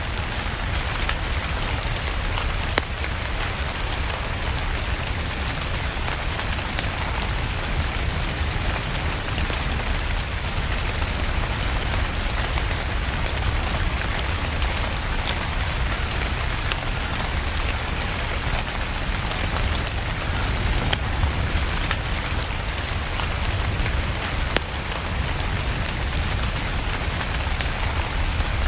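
Steady rain falling with a low rumble, over a log fire crackling in a fireplace, with scattered small crackles and a sharper pop about three seconds in and another near the end.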